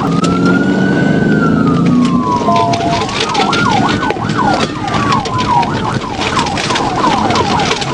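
Police car siren: one slow wail rising and falling, then switching about three seconds in to a fast yelp of about three sweeps a second, over steady road and engine noise.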